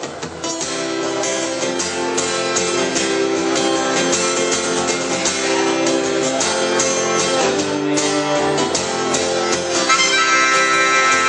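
Acoustic guitar strummed in a steady rhythm as a song's instrumental intro; near the end a harmonica comes in with held notes.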